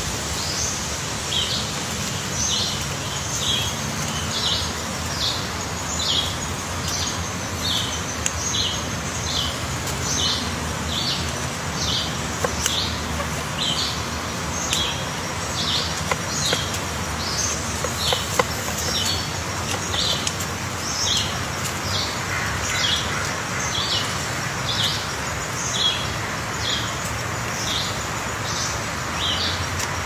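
Short, high bird chirps repeating in a steady run, a little faster than once a second, over a constant outdoor background hiss.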